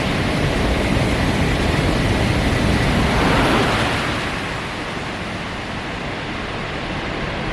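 KTX high-speed train pulling into the station platform: a loud rushing of air and wheels that swells, then eases to a lower steady rush as the train slows.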